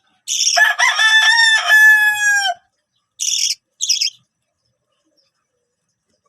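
A rooster crowing once, one long call of a bit over two seconds, then two short raspy chirps.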